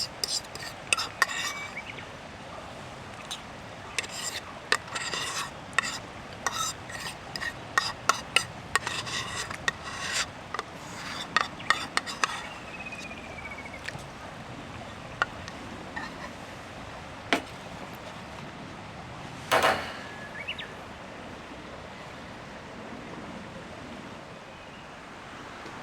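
Metal camp cookware and utensils being handled: irregular clinks, taps and light scrapes, thick in the first dozen seconds and then only now and then, with one longer scrape about twenty seconds in.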